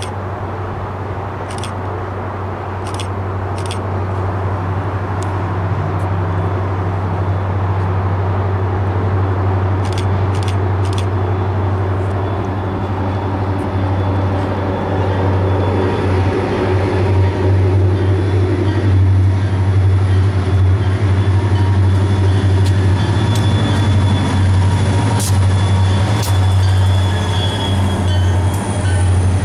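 Pan Am Railways freight train's diesel locomotive running with a steady low hum as it approaches and passes, growing louder over the first half. Freight cars then roll past with wheel noise, a few clicks and faint high wheel squeals near the end.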